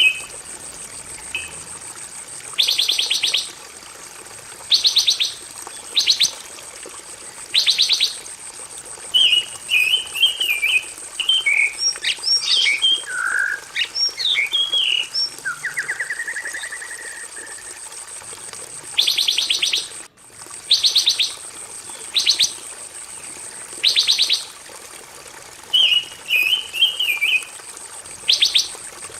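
A pancawarna songbird singing hard. Short fast trills every couple of seconds alternate with chattering phrases and a rising whistle, over a steady high thin whine.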